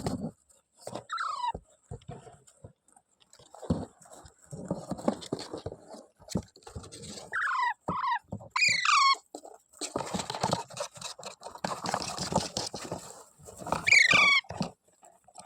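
Pet parrot giving short squawks that fall in pitch: one about a second in, a quick run of several around the middle, and another near the end. Scratchy, rustling noise fills the gaps between them.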